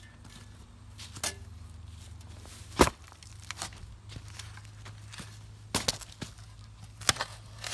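A shovel striking hard with a series of sharp knocks, about six in all, the loudest one nearly three seconds in.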